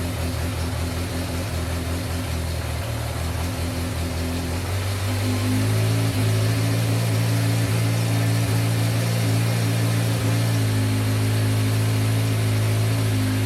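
A 1986 Yamaha FZ600's air-cooled inline-four engine running at idle. About five seconds in it rises to a higher, steady speed and runs a little louder.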